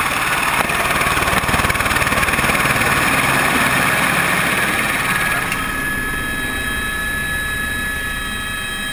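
Helicopter running, with engine and rotor noise. A rushing noise with a rapid flutter eases about halfway through, leaving a steadier, quieter whine.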